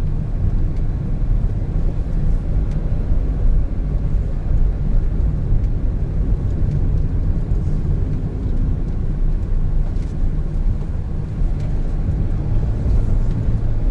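Steady low rumble of road and engine noise from a 2017 Honda N-BOX Custom kei car, with its 660 cc turbo engine, while it is driving.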